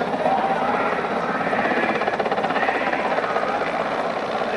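Helicopter rotor chopping with a fast, steady beat over a dense engine and wind noise, fairly loud as the helicopter comes in to land.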